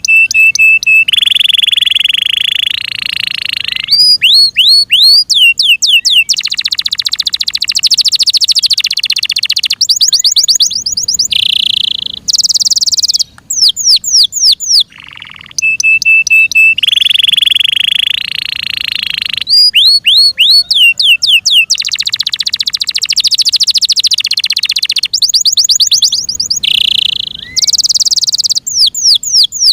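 F1 Yorkshire-cross canary singing a long, loud song: fast runs of sweeping whistled notes alternate with steady buzzing trills and rolls, broken by brief pauses. The same run of phrases comes round again about halfway through.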